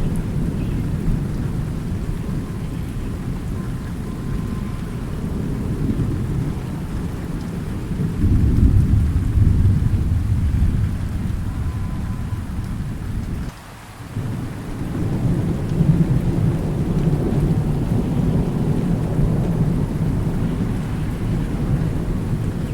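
Steady rain with rolling thunder rumbling low underneath. The thunder swells loudest about a third of the way in, then the sound briefly drops away just past the middle before the rain and rumble return.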